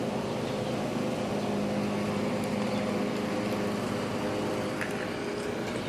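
Lawn mower engine running steadily, with heavy rain falling.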